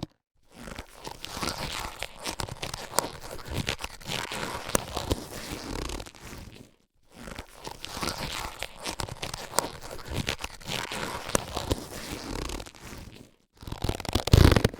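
Latex surgical gloves being handled and stretched: rubbery crinkling with many small sharp snaps and clicks, in runs of about six seconds broken by short silent gaps, louder near the end.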